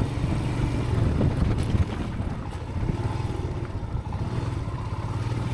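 Motorcycle engine running steadily at low speed while ridden over a rough, loose-rubble track, with wind noise on the helmet microphone.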